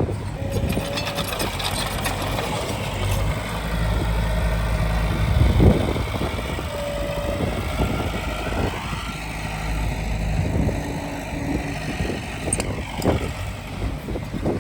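Diesel engine of heavy earthmoving equipment running steadily, with scattered metallic clanks and a few short squeals.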